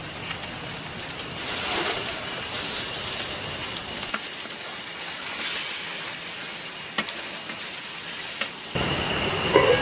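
Food frying in a pan: a steady sizzling hiss with a few sharp pops. The sound changes abruptly shortly before the end, with a low rumble and a thin steady whine coming in.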